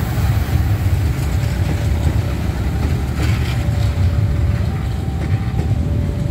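Passenger train running past on the rails and moving away: a steady low rumble, with faint steady high tones coming in after the first second or so.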